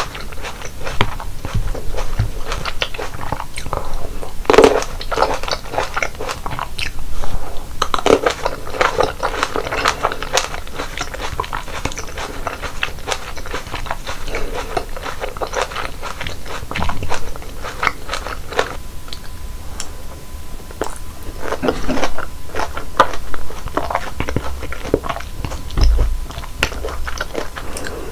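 Close-miked biting and chewing of fresh fruit: dense runs of short clicks and crackles in clusters, easing off for a moment about two-thirds of the way through.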